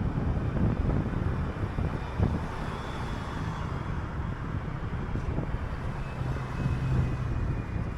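City transit bus driving in traffic, heard from on board: low engine and road rumble with scattered knocks and rattles, and a steady low engine hum about six seconds in.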